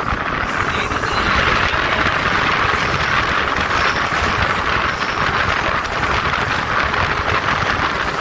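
Passenger train running through a tunnel, heard from an open coach door: a loud, steady rush of wheel and air noise that grows louder in the first second as the coach enters the tunnel.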